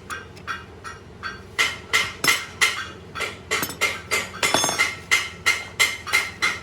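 Repeated hammer blows on metal, about three a second, each with a short metallic ring, pausing briefly about a second in.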